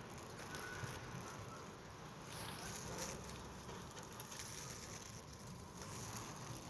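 Wind blowing in gusts, a rushing noise that swells for a moment two or three seconds in.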